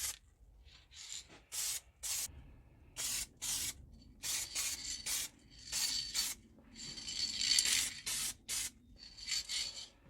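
Short rasping strokes of work on the restored scissors' steel, about two a second, a few carrying a faint ring.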